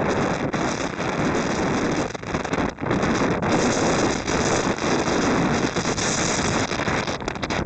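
Strong gusting wind buffeting the microphone, a loud rushing roar with brief dips and lulls.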